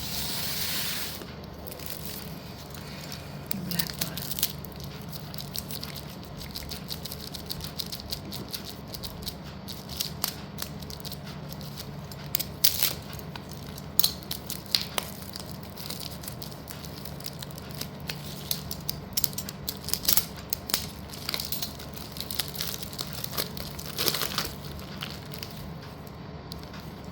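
Slate bars and pencils being handled and unpacked: irregular sharp clicks and knocks of the slate pieces, with crinkling of packaging and a brief rustle at the start, over a steady low hum.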